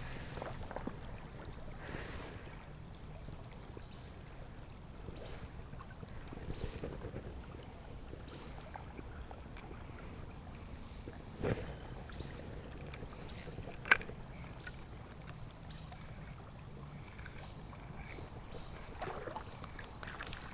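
Outdoor river ambience: a steady low rush of water and wind with a thin, steady high-pitched whine over it. A soft knock comes about eleven seconds in, and a sharp click about fourteen seconds in.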